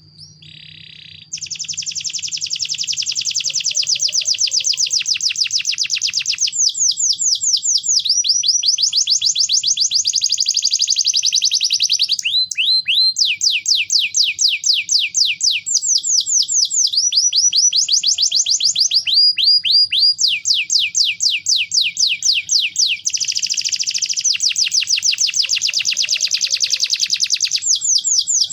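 Domestic canary singing a long, unbroken song, starting about a second in. It runs through fast trills and rolling phrases of rapidly repeated high notes, switching to a new pattern every few seconds.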